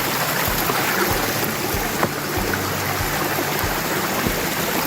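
Small woodland stream rushing fast, swollen by rain: a steady, even rush of water.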